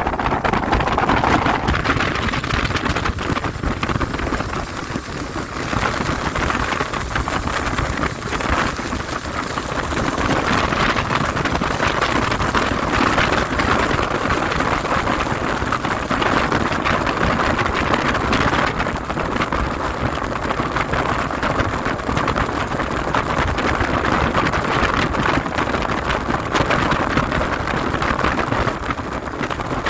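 Speedboat running at speed on open water: a loud, steady rush of engine, water and wind noise.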